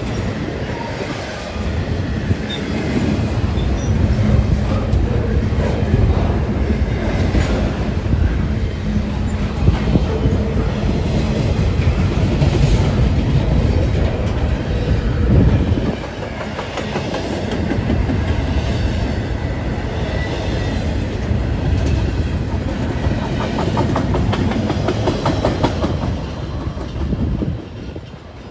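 Double-stack intermodal container well cars of a freight train rolling past: a steady rumble of steel wheels on rail with clicking over the rail joints. The noise drops off sharply near the end as the last car goes by.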